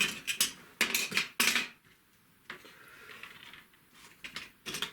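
Paintbrushes clattering against each other as they are rummaged through in search of a rigger brush: a quick run of sharp clicks and rattles in the first second and a half, then fainter rustling with a few more clicks near the end.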